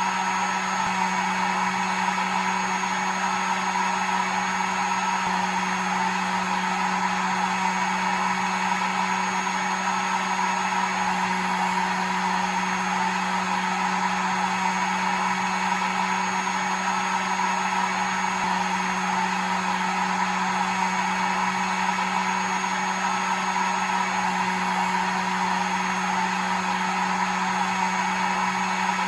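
Hair dryer running steadily: an even rush of air over a low motor hum.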